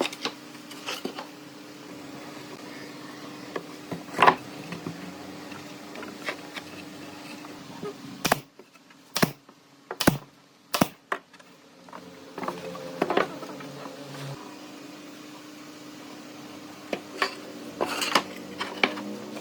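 Irregular knocks and taps of hand woodworking, with four hard strikes about a second apart around the middle and a cluster of lighter taps near the end, over a steady low hum.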